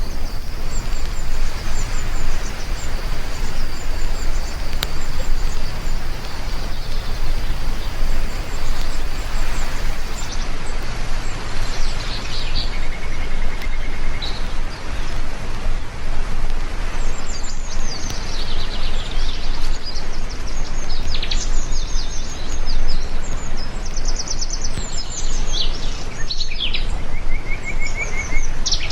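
Steady heavy rain with birds chirping over it, the chirps becoming more frequent about halfway through.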